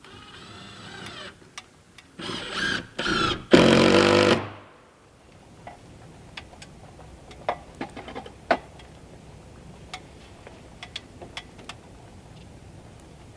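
Handheld power tool motor running in several short bursts, its pitch winding up and then falling away as it stops about four and a half seconds in. Scattered light knocks and taps follow.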